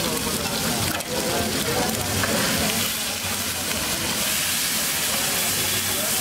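Egg and masala mixture sizzling on a hot flat griddle, with a spatula scraping and chopping it across the metal surface.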